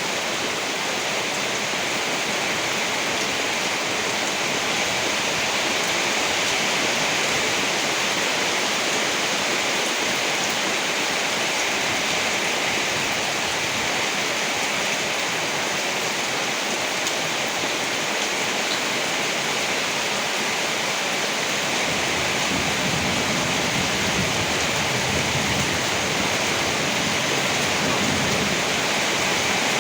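Steady heavy rainfall, an even hiss of rain. About two-thirds of the way through, a low rumble rises beneath it.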